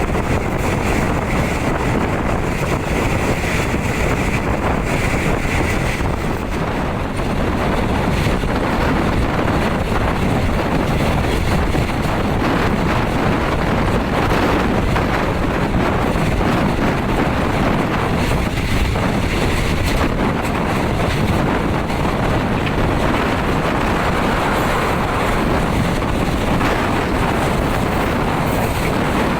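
Riding inside a moving third-class passenger coach: the steady running noise of the train on the rails, with wind rushing over the microphone.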